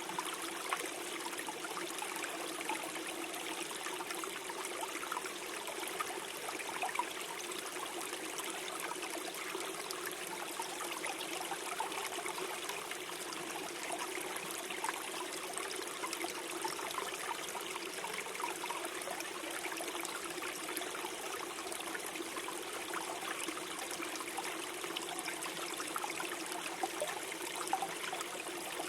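Small forest stream flowing and gurgling steadily over stones, a continuous wash of water with small splashes and trickles.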